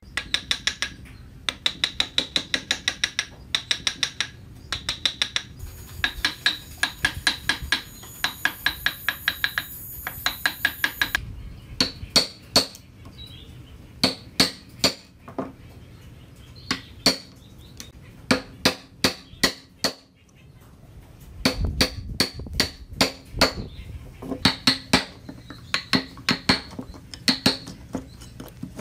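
Hammer tapping in quick runs of light strikes, about four or five a second, each with a short metallic ring, broken by brief pauses.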